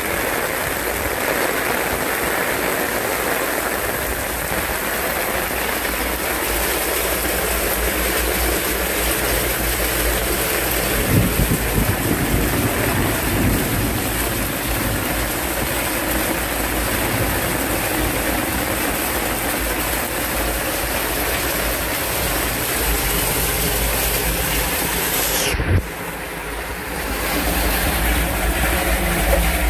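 Torrential rain and rushing drainage water: a loud, steady rush with a low rumble. The sound dips and changes abruptly about 26 seconds in.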